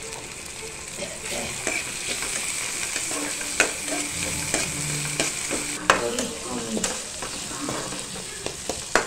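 Chopped shallots and tomato sizzling in hot oil in a pan while being stirred. The spoon scrapes the pan throughout and knocks sharply against it about three and a half seconds in, again about six seconds in, and near the end.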